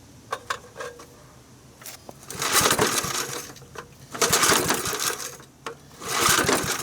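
Three pulls on a lawn mower's freshly rebuilt recoil starter (new pulley and spring), each about a second long, turning the engine over without it firing. A few light clicks come before the first pull.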